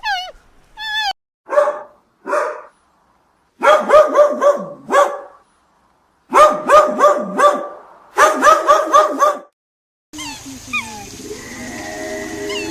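An animal calling: a few single yelps, then two bursts of rapid, repeated high yips several times a second. Near the end the sound changes to small birds chirping over a steady background hum.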